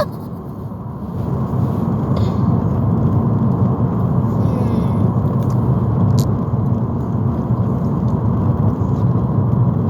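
Road and engine noise heard inside a moving car's cabin: a steady low rumble with tyre hiss, growing louder about a second in, with a single small click partway through.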